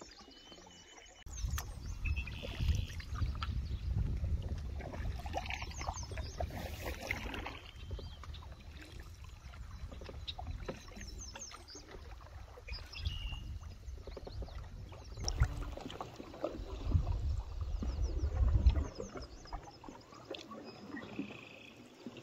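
Water lapping and splashing along a canoe's hull as it is paddled, with the swish of paddle strokes, heard close to the waterline. It swells and eases unevenly with the strokes over a steady low rumble.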